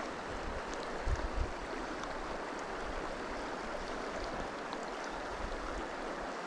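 Steady rush of a shallow, clear mountain stream's flowing water, with a brief low rumble about a second in.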